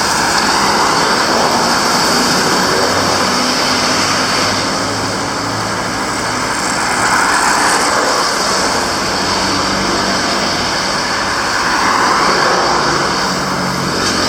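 Road traffic: motor vehicles driving past with engine hum and tyre noise, swelling three times as they pass.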